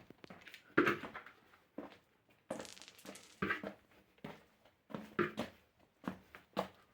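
Irregular footsteps and scuffing knocks, roughly one a second.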